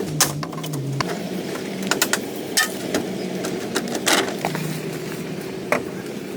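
Scattered knocks and taps of hand work on wood, over a steady low hum.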